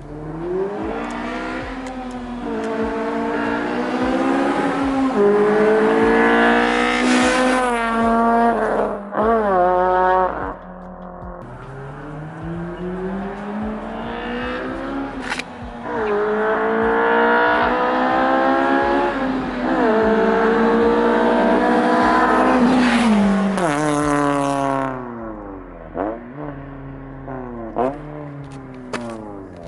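Car engine accelerating hard through the gears in two long pulls, the pitch climbing and dropping back at each upshift, then easing off near the end.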